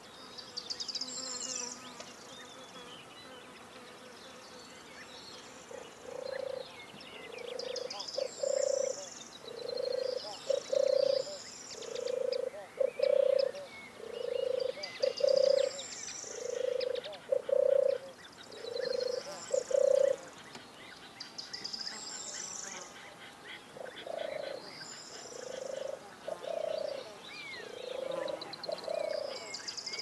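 Birds calling and singing. A low two-note call repeats about every two seconds; it starts about six seconds in, is loudest for the next quarter-minute, and then carries on more faintly. Higher songbird phrases come and go over it.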